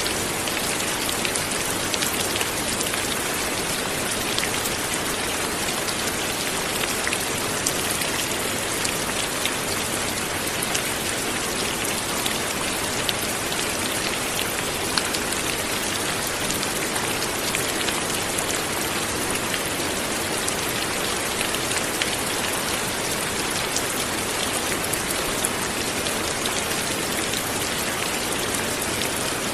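Steady light rain falling, a dense even patter of drops hitting a surface, with many small individual drop ticks.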